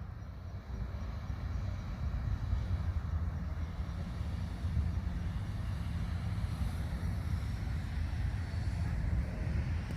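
A steady low rumble with a faint hiss above it, swelling slightly about two seconds in.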